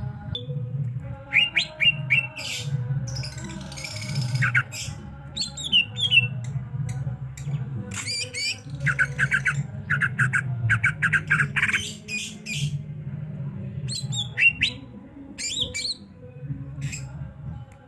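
Songbird singing in quick clusters of sharp chirps, squawks and sweeping whistled notes, over a steady low hum.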